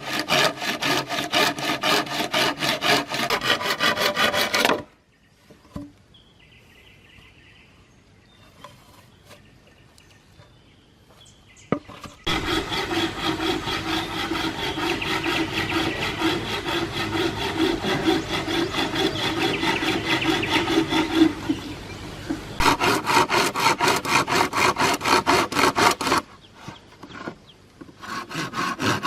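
Wood being sawn by hand in bursts of rapid back-and-forth strokes. A pause follows, then a longer, steadier stretch of rasping on the wood, and two more short bursts of strokes near the end.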